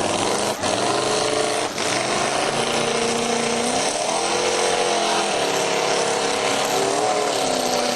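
An off-road vehicle's engine revving, its pitch rising about halfway through, holding, and falling again near the end.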